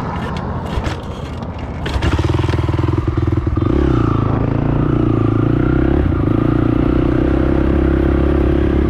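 Honda TRX450 quad's single-cylinder four-stroke engine pulling away under throttle. At first there is clatter and rumble; about two seconds in, the engine note jumps louder, shifts pitch once a moment later, then runs steady at speed.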